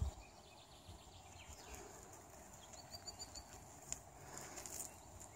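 Faint outdoor ambience with a soft low bump at the start. About three seconds in, a small bird gives a quick run of four or five short high chirps.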